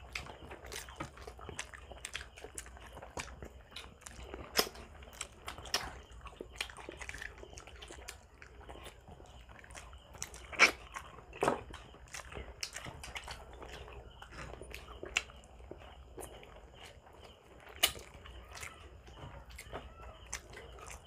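Close-miked eating sounds: chewing and biting into grilled Filipino barbecue and rice, a steady run of small wet mouth clicks and smacks. A few louder clicks stand out about halfway through and again near the end.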